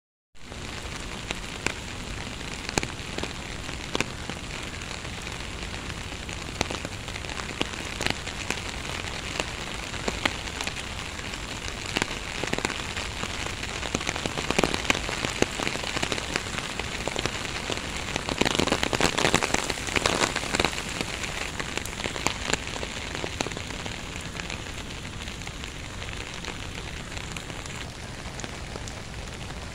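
Rain falling steadily, with many distinct drop hits close by over an even hiss. The rain grows heavier for a few seconds past the middle, then eases back.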